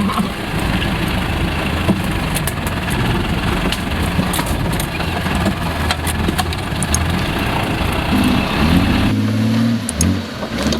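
Off-road 4x4 engine running at low revs under a wash of noise, with scattered clicks and knocks. The sound changes abruptly about nine seconds in, and the engine's pitch slides up and down near the end.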